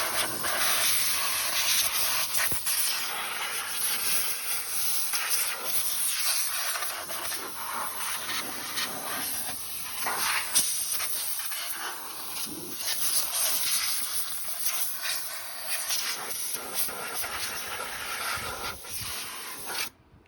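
Compressed air jetting from a blow gun in long, wavering blasts, blowing acorns and nest debris out of a lawn tractor engine's starter and cooling area; it cuts off abruptly near the end.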